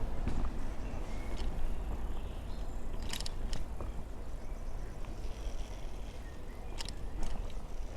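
Riding a bicycle: wind buffeting the microphone over the steady noise of the tyres on the road, with a few sharp clicks from the bike, twice about three seconds in and twice near the end.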